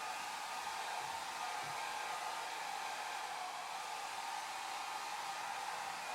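Hair dryer running steadily, a continuous airy rushing hum with most of its strength in the middle range and no change in speed.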